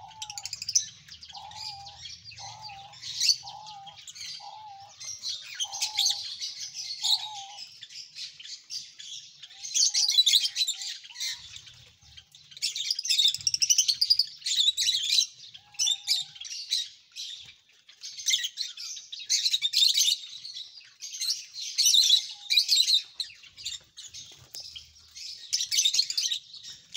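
Many small caged birds chirping and chattering continuously in high calls. A lower note repeats about every half second over the first seven seconds or so.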